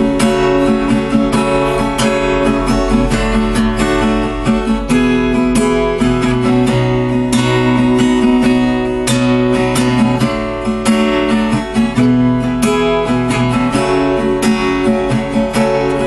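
Acoustic guitar strummed in a steady rhythm, playing an instrumental break between sung verses of a song.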